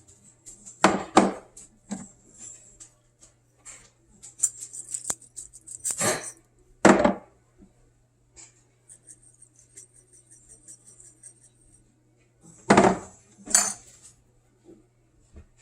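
Kitchen dishes and utensils clinking and knocking, with a few louder knocks about a second in, around six to seven seconds in, and near the end, and lighter ticking between them over a steady low hum.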